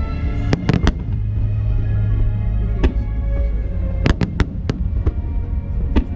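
Fireworks bursting with sharp bangs, several near the start and a quick cluster about four seconds in, over music playing through loudspeakers with a deep low rumble.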